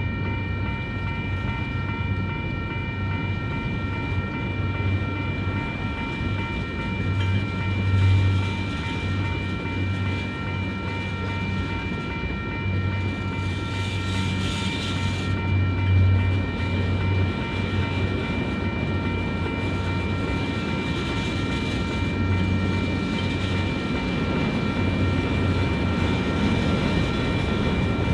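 Freight train cars rolling over a road crossing, rumbling and clattering unevenly, with a steady ringing of several high tones held the whole time, from the crossing's warning bell.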